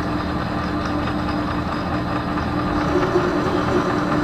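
Metal lathe running steadily during single-point thread cutting: a constant motor and gear-train hum with a busy mechanical rattle from the geared drive.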